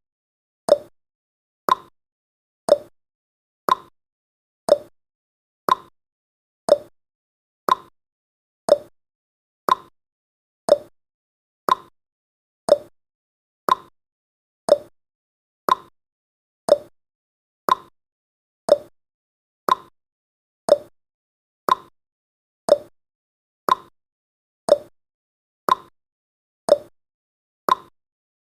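Countdown timer's ticking sound effect: one short, sharp tick every second, evenly spaced and each dying away quickly.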